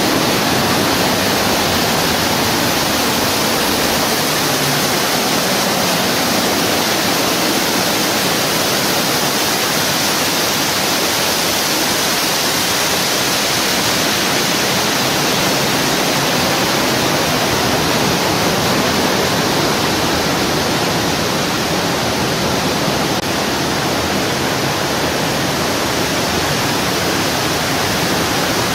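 Steady roar of rushing water, loud and unbroken.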